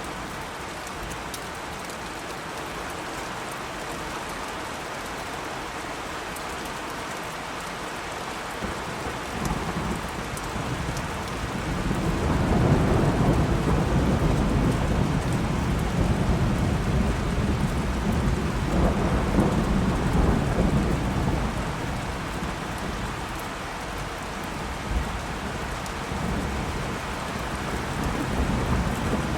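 Steady rain with a long rolling peal of thunder: the rumble builds about a third of the way in, is loudest in the middle, then dies away, and another low rumble rises near the end.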